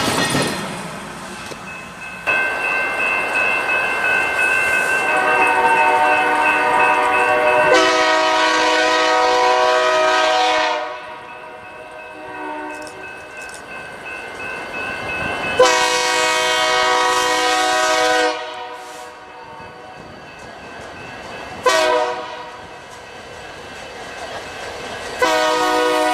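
Locomotive multi-chime air horn sounding the grade-crossing signal: a long blast, a second long blast, a short one, and a final long one starting near the end. Between blasts the passing train's running noise is heard.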